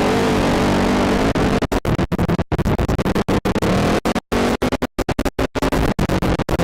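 Quad ATV engine running, its sound broken after about a second and a half by many sudden, irregular dropouts to silence, a stuttering, chopped-up track.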